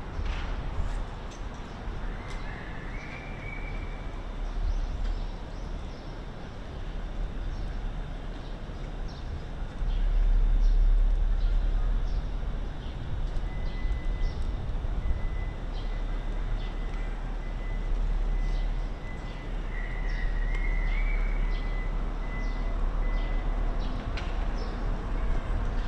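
City park ambience: a steady low rumble of traffic, with a few thin bird chirps and a long faint high note.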